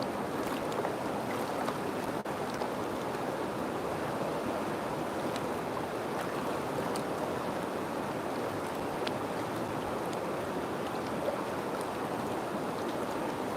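River water flowing steadily: a continuous even rush with a few brief faint ticks on top.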